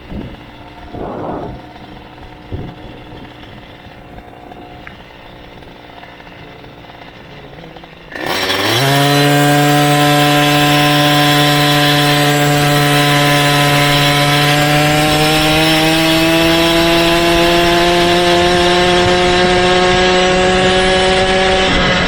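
Motorized bicycle's small engine running quietly for about eight seconds, then suddenly opening up. Its pitch climbs and settles into a loud, steady run that rises slowly near the end.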